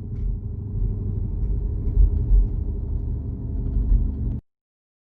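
Car engine running with a low, uneven rumble, then cutting off suddenly a little past four seconds in.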